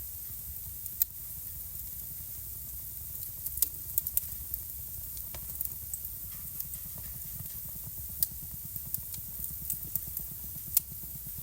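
Wood fire burning in a home fireplace, crackling: irregular sharp pops and snaps, a few louder than the rest, over a low steady rumble of the flames.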